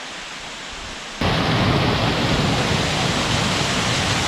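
Waterfall: a steady rush of falling water that jumps abruptly much louder and fuller about a second in.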